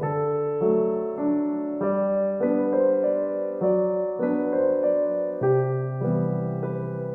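Background music: a gentle solo piano piece, played in slow, even chords.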